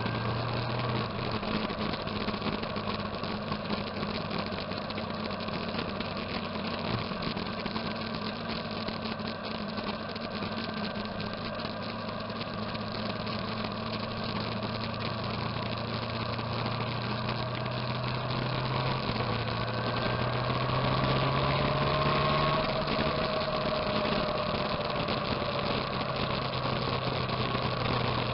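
Motorcycle engines running steadily, their note stepping up and down a few times. A second engine note rises and falls and grows louder about twenty seconds in.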